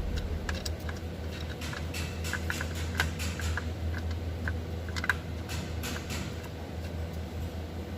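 Ford Expedition engine running with a steady low hum, with light, irregular clicking and ticking over it.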